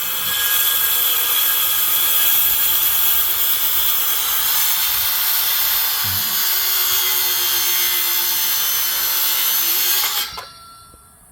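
Power saw running and cutting through wood, a steady high, loud whine that stops suddenly about ten seconds in.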